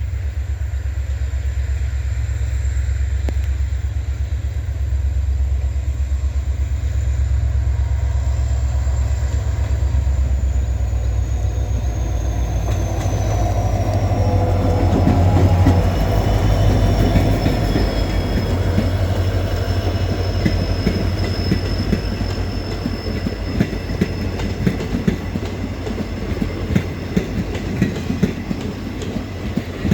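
EMD WDP4D diesel-electric locomotive's engine notching up on departure: a deep engine rumble that builds to its loudest about halfway through, with a thin high whine that falls in pitch. In the second half, wheels click over rail joints as the train gathers speed.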